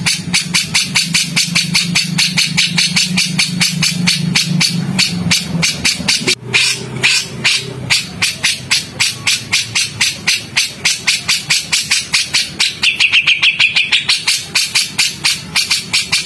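Cucak jenggot and cililin birds calling in a rapid, harsh run of sharp notes, about five a second, without a break; this is the rough 'tembakan' chatter used in masteran recordings. A longer, arching note comes in about thirteen seconds in.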